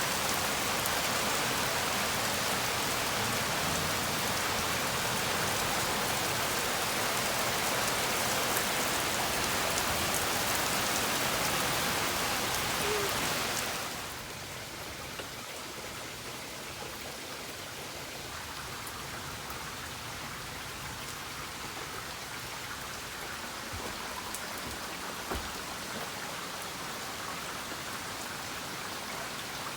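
Heavy rain pouring down, a steady hiss of rain on surfaces; about halfway through it drops to a quieter, softer rain.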